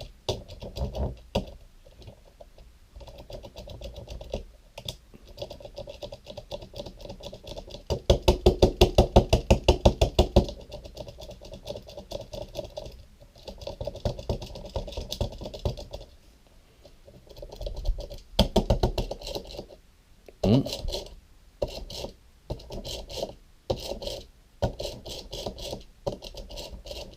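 Plastic toy 4x4 being tapped and rocked back and forth, irregular clicks, knocks and rattles, with a run of fast, even tapping about eight seconds in that lasts a couple of seconds. The tapping is meant to free the toy's seized electric motor so it turns again.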